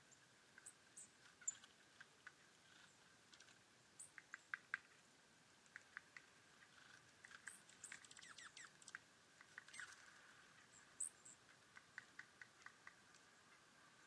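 Small birds giving short, high chirps here and there, among faint irregular ticking and pattering.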